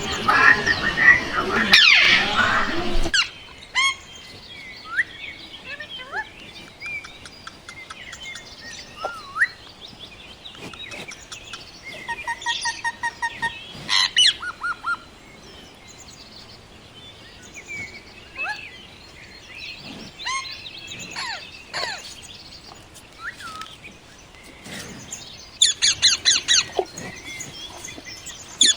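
Indian ringneck parrot calling: short whistles, chirps and gliding squeaks. The first three seconds are louder and denser. About halfway there is a quick run of evenly repeated notes, and near the end a burst of rapid chattering chirps.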